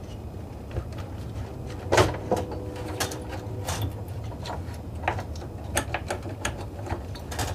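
Fuel pump module being worked down into a Camaro's fuel tank: irregular clicks, knocks and scrapes of the assembly and its spring, the loudest knock about two seconds in, with a brief creak or ring.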